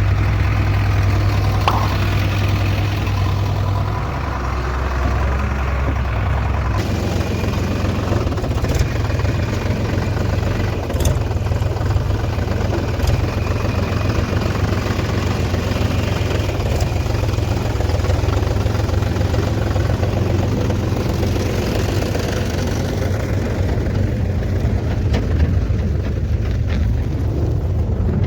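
Diesel engine of heavy machinery running continuously, with a deep steady hum; its note drops about four seconds in and changes again about seven seconds in.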